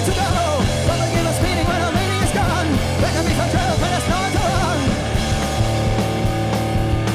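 Loud live punk rock band playing, with a yelled vocal line that stops about five seconds in, leaving held, sustained guitar chords over the rhythm.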